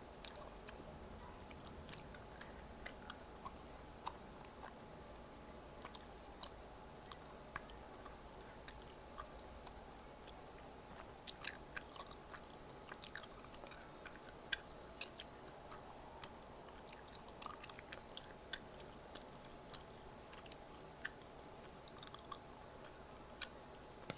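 A person chewing food close to the microphone, with scattered sharp clicks and smacks from the mouth and eating, one clearly louder click about a third of the way in.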